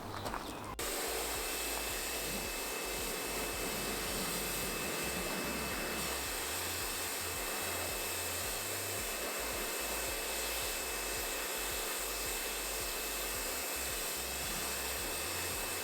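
Kärcher K2 pressure washer running and spraying water, a steady hiss with a faint high whine, starting suddenly about a second in.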